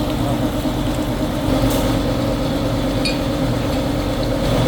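Factory machinery running with a steady hum and rumble, with a few short metallic clinks about three seconds in and near the end.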